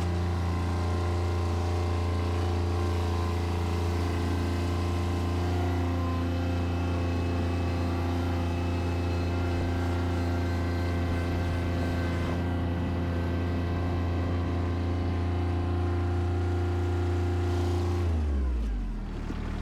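Bobcat tractor's engine running steadily at high speed, then slowing near the end with a falling pitch.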